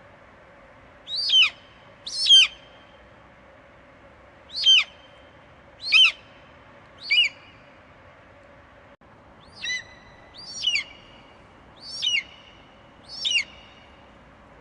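Eagle screeching: nine short, high, piercing calls, each dropping sharply in pitch, coming about a second apart with a couple of longer pauses.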